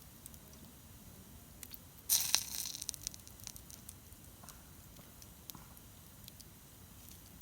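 Wood campfire crackling with scattered sharp pops, and a louder crunching rustle lasting under a second about two seconds in.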